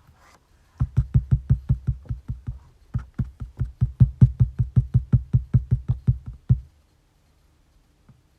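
Typing on a computer keyboard: a fast, even run of key strokes, about five or six a second, each with a dull thud. There is a brief pause a couple of seconds in, and the typing stops a little before the end.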